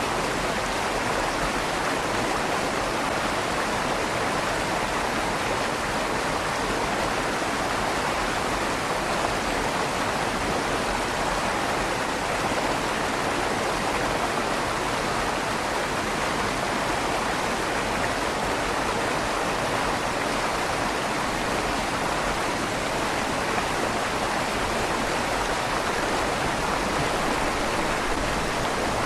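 River water flowing and rushing steadily under a stone bridge, a continuous even rush with a slight echo from inside the bridge's tunnel.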